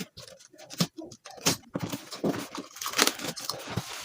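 Box cutter slicing through packing tape on a cardboard box, with scraping, rustling and knocks as the box is handled; the cutting noise gets denser about a second and a half in.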